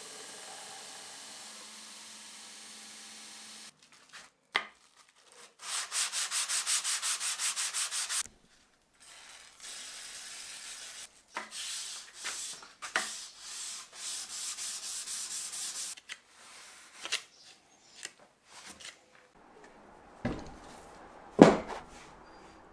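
A small motor runs steadily and stops about four seconds in. Then sandpaper is rubbed back and forth by hand on the cast-iron vise, quick even strokes about four a second, in two spells, followed by scattered clicks and knocks with one sharp knock near the end.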